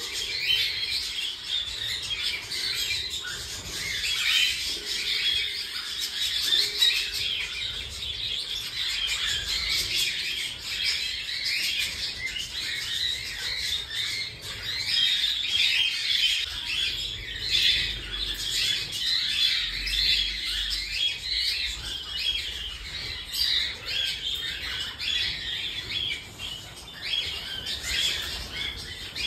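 Many cockatiels chirping and calling at once, a dense, unbroken chatter of short chirps.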